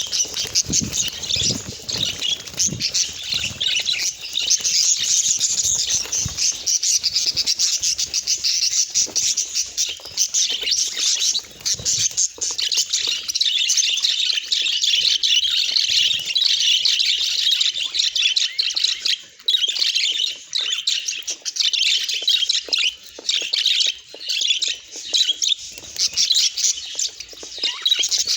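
Budgerigars chattering and warbling in a steady stream of rapid chirps, with some low thumps during the first several seconds.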